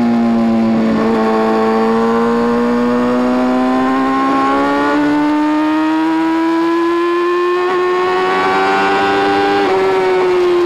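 Sport motorcycle engine running under load, its pitch climbing slowly over several seconds, with a step about five seconds in and a drop near the end.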